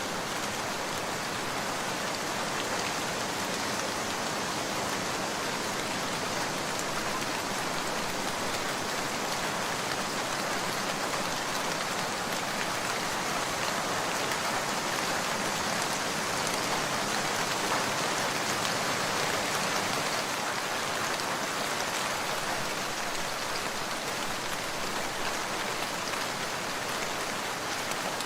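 Steady, dense rainfall, swelling a little in the middle.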